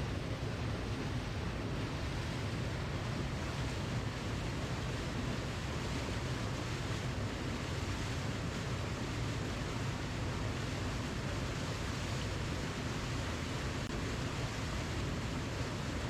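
Waterfall: a steady rush of falling water, an even roar with most weight in the low range.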